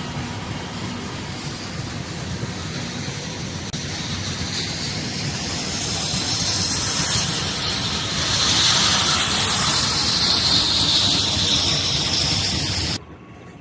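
A train rolling past: a steady rumble and hiss of railcars on the track, the hiss growing louder in the second half, then cut off suddenly near the end.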